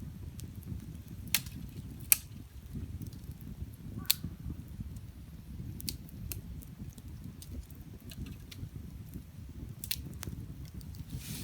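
Wood campfire burning, crackling with a few sharp pops and many fainter ticks over a low, steady rumble.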